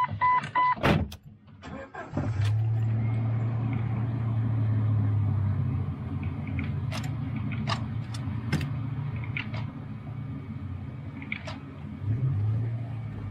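A few quick electronic beeps, then the Jeep Cherokee XJ's engine starts about two seconds in and runs steadily, heard from inside the cabin, with a few clicks over it and a brief rise in engine sound near the end.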